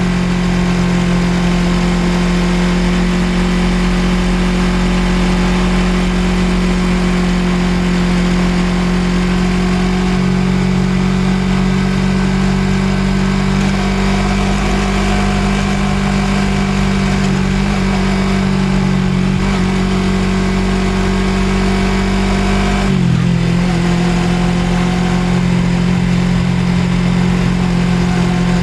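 Suzuki GSX250R's parallel-twin engine running at a steady cruising speed while the motorcycle is ridden. About three-quarters of the way through, the engine pitch dips briefly and then settles again.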